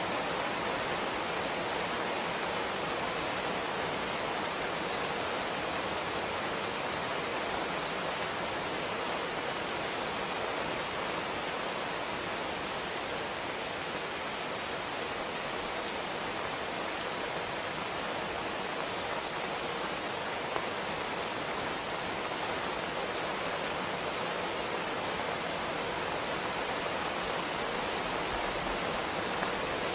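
Steady rain shower, an even hiss without letup.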